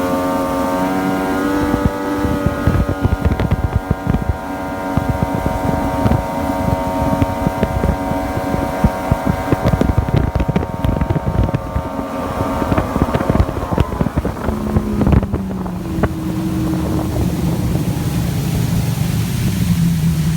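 Yamaha GP1200R jet ski's three-cylinder two-stroke engine running at high revs, with many sharp knocks and wind on the microphone. About thirteen seconds in the engine note falls as the throttle comes off, and it settles into a low, steady run. The ski has freshly rebuilt carburettors and runs strong.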